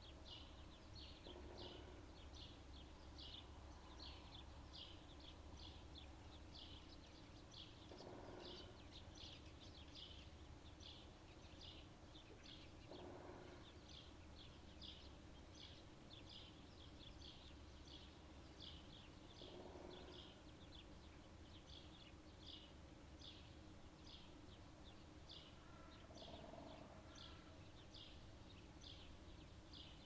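Faint birdsong: one bird gives a steady run of short, high chirps, roughly two a second. About every five to seven seconds a lower, hazier sound lasting about a second comes through from further off.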